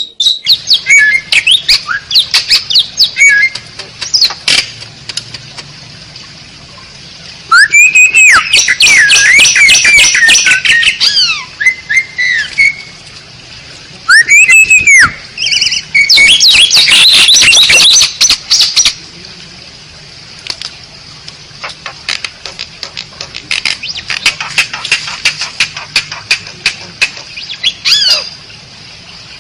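Asian pied starling (jalak suren) singing: loud whistles sliding up and down mixed with harsh chattering, in two long bursts in the middle, with runs of rapid clicking notes between them.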